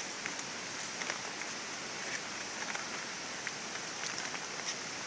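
Steady rush of water from Sai Thong waterfall, with scattered light ticks and clicks over it.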